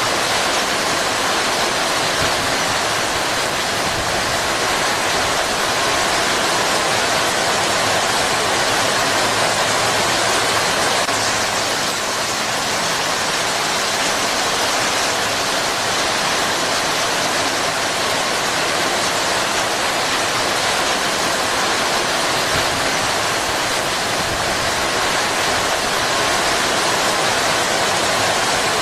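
Heavy rain pouring steadily onto palm fronds and foliage, a dense, even hiss.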